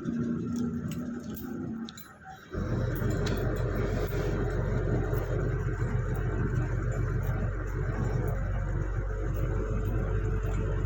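A heavy vehicle engine running steadily with a low, even hum that sets in abruptly about two and a half seconds in, after a brief quieter moment; a few light clinks before it.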